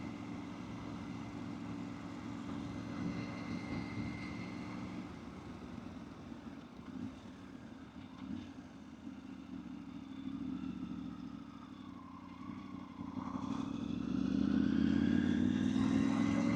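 Motorcycle engine running as the bike rides along, steady at first, then louder and rising in pitch for the last few seconds as it accelerates.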